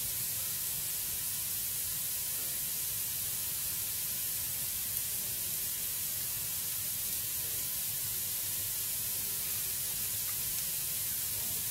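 Wood fire burning in a fireplace: a steady hiss, with a single faint crackle about halfway through.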